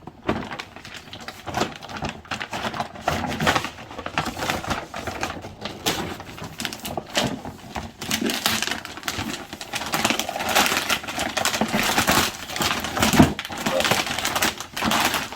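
Crinkling, rustling and tearing of packaging as a large cardboard gift box is opened by hand, busier in the second half.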